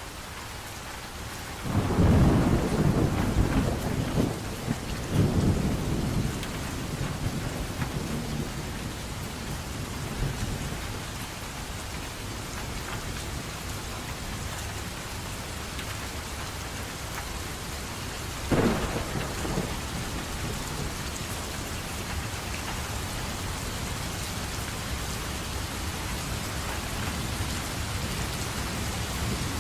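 Steady rain with thunder. A long rolling rumble of thunder begins about two seconds in and dies away over roughly four seconds. A sharper clap of thunder comes a little past halfway and rumbles briefly.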